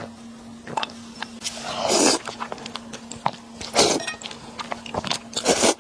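A person eating mixed noodles close to the microphone: three loud slurps, about two seconds in, near four seconds and near the end, with short wet chewing clicks between them.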